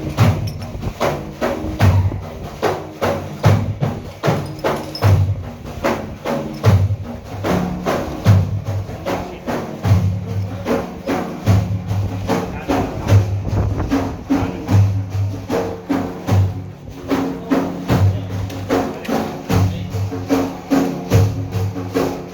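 Instrumental break in Iraqi religious praise music (madih): hand percussion beats a steady, quick rhythm of about three strokes a second over held low tones.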